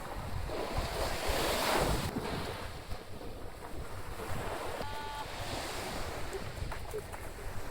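Surf breaking and washing on a beach, with wind buffeting the microphone. A short high tone is heard briefly about five seconds in.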